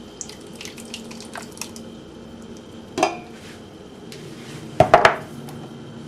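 Cans of crushed tomatoes being emptied into a large cooking pot: small metal clinks and scrapes, a sharp knock about three seconds in, and a louder cluster of clanks near the end.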